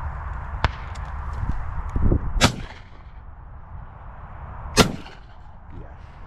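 Two shotgun shots about two and a half seconds apart, the second the louder, each a sharp bang with a short echo tail.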